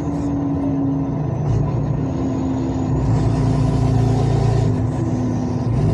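Heavy truck engine running steadily in slow traffic, a low drone that grows a little stronger about halfway through.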